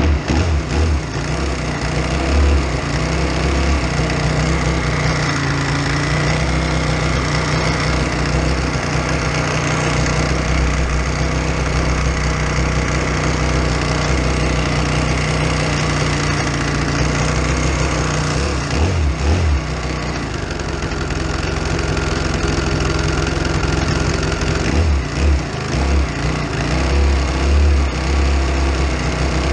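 Britten V1000's V-twin racing engine idling, heard close up from a camera mounted on the bike. Its beat changes briefly a couple of times in the second half.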